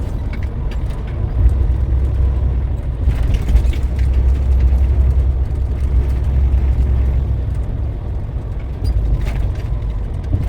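Semi truck driving, a steady low engine and road rumble.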